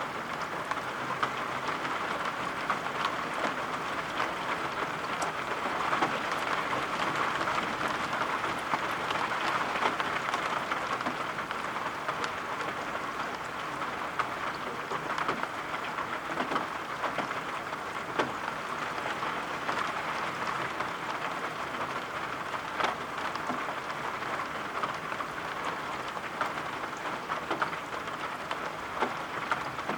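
Steady rain, an even hiss with many small scattered drop taps.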